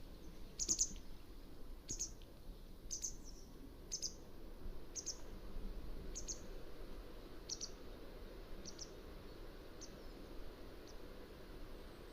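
Mountain wagtail calling: a run of short, high calls about once a second, the first few loudest and the later ones growing fainter.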